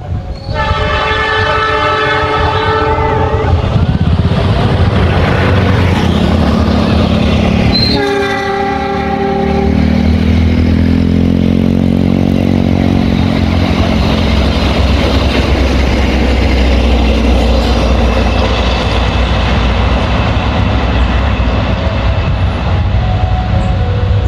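Diesel-hauled passenger train passing at speed without stopping: the locomotive sounds its horn, a chord of several notes, in a long blast of about three seconds and a shorter one about eight seconds in. A drone falls in pitch as the locomotive goes by, followed by the steady rumble and wheel clatter of the coaches.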